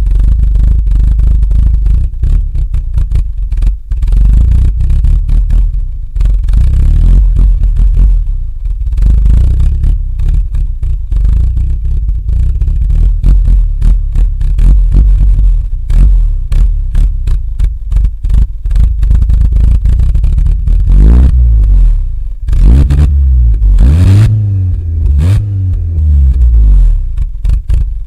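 Car engine on a cold start, idling with a heavy, uneven exhaust rumble, then revved up slowly and let fall back about three times in the last third.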